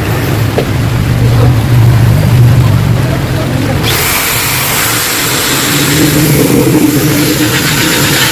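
Yamaha RX-King two-stroke single-cylinder motorcycle engine running through a hollowed-out exhaust, revved harder from about four seconds in, when a sharp hiss joins the low exhaust note.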